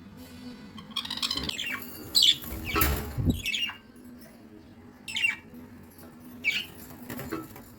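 Baby budgerigars squawking: a run of short, harsh calls that fall in pitch, about half a dozen in all, with a louder scuffle near the middle.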